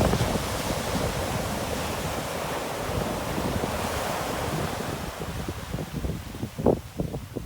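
Sea waves washing on the shore: a steady hiss of surf that slowly dies down, with wind rumbling on the microphone and a few short gusts near the end.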